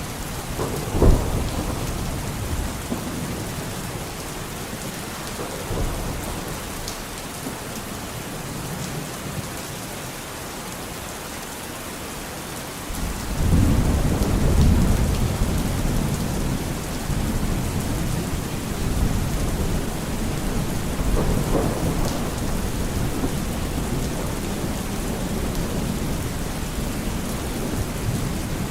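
Steady heavy rain with thunder: a sharp crack of thunder about a second in, then about halfway through a long low rumble of thunder sets in and swells again, running on under the rain.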